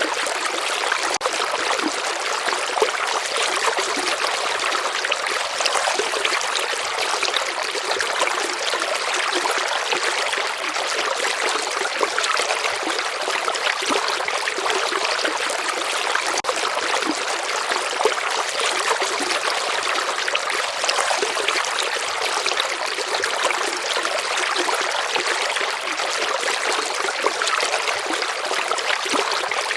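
Shallow stream flowing steadily, a constant trickling rush of water with no change in level.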